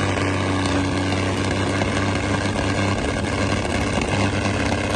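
Tractor engine running steadily, an even drone with no change in pitch.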